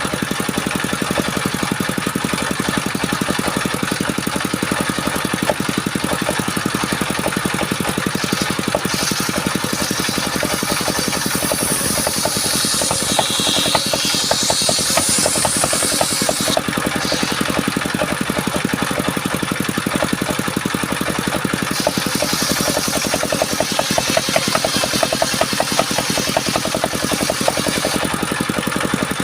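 Engine-driven circular saw running steadily while sawing sengon (albasia) wood. Twice, a high hiss lasting several seconds rises over the machine's drone as the blade cuts through the timber.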